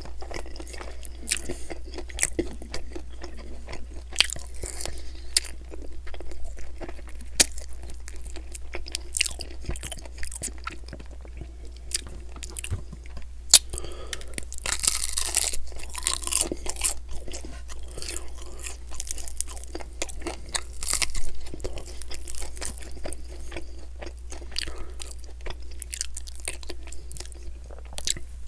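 A man chewing and biting into buffalo chicken wings, with crunches and small clicks throughout and a louder crackling stretch around the middle.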